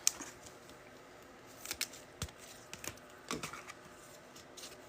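Faint, scattered clicks and snaps of trading cards being handled and flipped through, about half a dozen sharp ticks spread over a few seconds.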